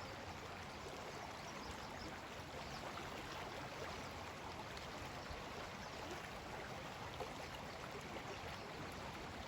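Steady rushing and bubbling of a river's quick current.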